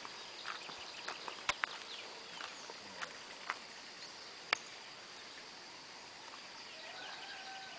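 Faint countryside ambience: a steady high insect drone with scattered bird chirps and a few sharp clicks, the loudest about four and a half seconds in.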